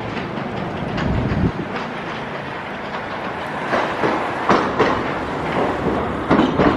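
Hiroshima Electric Railway streetcar running along its track, its wheels knocking irregularly over rail joints and points.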